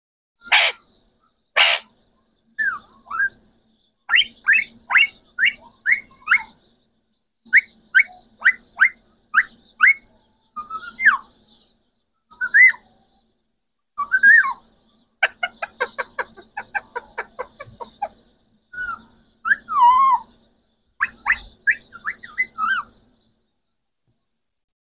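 Green parrots calling: two harsh screeches near the start, then runs of short, rising whistled chirps, including a fast string of them about halfway through and a longer curving whistle later.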